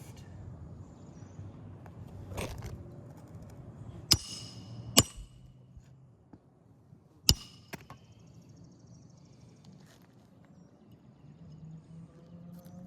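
Roofing nails being driven into shingles: three sharp metallic strikes, two about a second apart and a third about two seconds later, each ringing briefly, with a few lighter taps and scrapes between.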